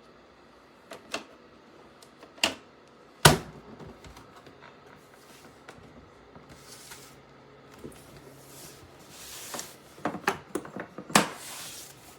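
A series of handling noises: sharp clicks and knocks, the loudest about three seconds in, then rustling and a quick cluster of clicks near the end.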